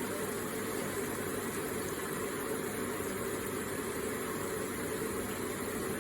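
Electric water feature running, its water trickling and splashing in a steady, even stream.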